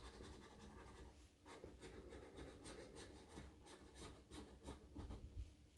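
Faint, quick, repeated scratching strokes on a scratch-off lottery ticket, scraping off the coating.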